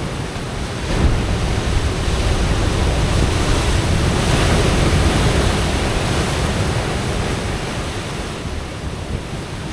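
Ocean waves breaking and surging against coastal rocks: a deep rumble of surf that swells about a second in, peaks near the middle and washes back down.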